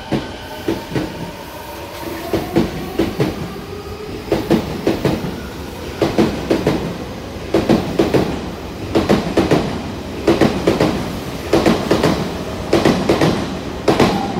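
Odakyu 4000 series electric commuter train pulling out of the station: wheels clacking over the rail joints in quick groups about every second and a bit as each car's bogies pass, over a steady rumble. The traction motors whine, rising in pitch over the first few seconds as the train gathers speed.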